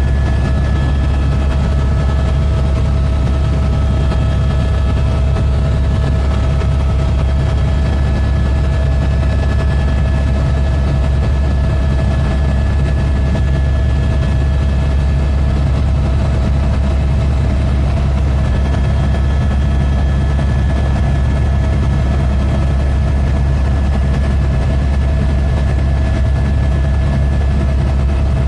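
Helicopter running steadily: a loud, even low rotor drone with a fast pulse, and a steady high engine whine over it.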